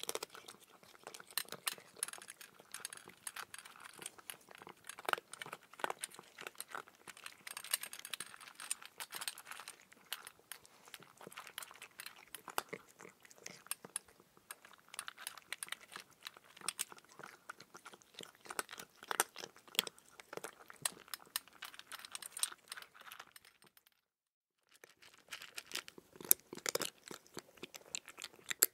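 Calico cat crunching and chewing dry food pellets, in quick irregular crunches close to the microphone, with a brief gap of silence a few seconds before the end.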